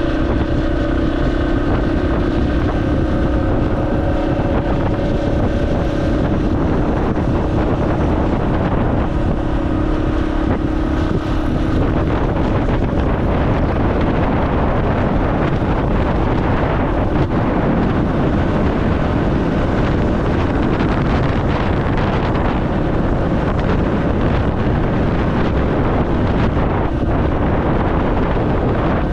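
Dual-sport motorcycle engine running steadily on the move, heard under heavy wind noise buffeting the microphone; the engine's tone is clearest in the first dozen seconds, after which the wind rush takes over.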